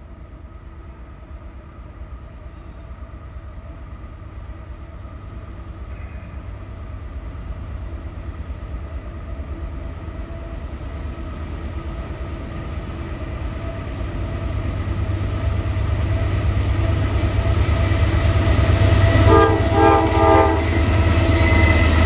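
Norfolk Southern diesel-electric freight locomotives approaching through fog, their engine rumble and wheel noise growing steadily louder until the lead units pass close by. About 19 seconds in, several short horn-like tones sound.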